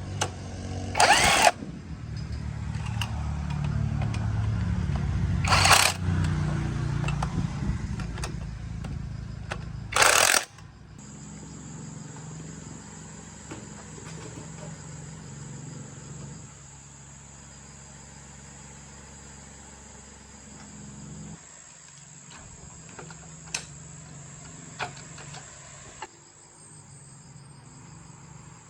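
Motorbike engine running for about ten seconds, with three short loud bursts along the way, then stopping abruptly. A quieter steady low hum and a thin high-pitched whine follow.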